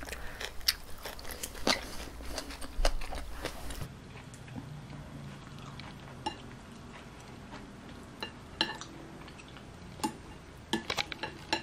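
Close-up chewing and crunching of a bite of pork belly wrapped in shredded green onion, followed after about four seconds by a few scattered light clicks of wooden chopsticks against a plate as another wrap is rolled.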